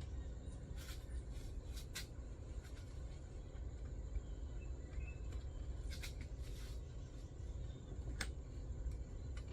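A few light clicks and taps from the metal parts of a chainsaw-mill attachment being positioned by hand, over a steady low background rumble with a faint high insect-like drone.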